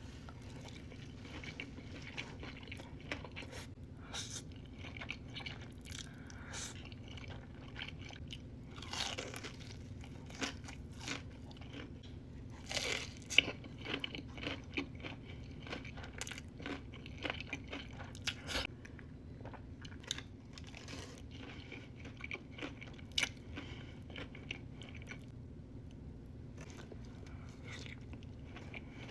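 Close-miked eating: a person chewing, with irregular crisp crunches and wet mouth sounds, over a faint steady low hum.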